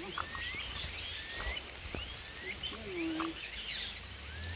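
Birds calling: repeated short rising chirps, with a few lower, curving calls among them, over a steady low rumble.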